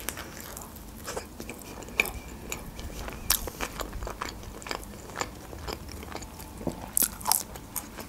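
A person chewing a bite of shawarma wrap: soft, wet mouth sounds with many small crisp clicks, and a few louder ones about two, three and seven seconds in.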